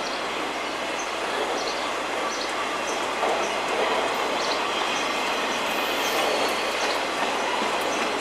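Freight train cars rolling past: a steady rumble of steel wheels on rail, with short faint high squeaks from the wheels here and there.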